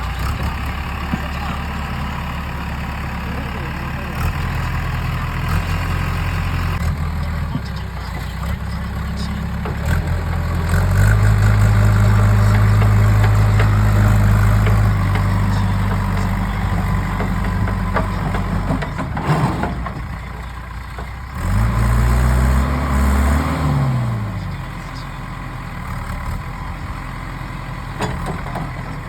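Diesel engines of a backhoe loader and tractors running at a mud-loading job. They idle steadily, rev up louder and higher for a few seconds around the middle, and give a quick rev up and back down near the end.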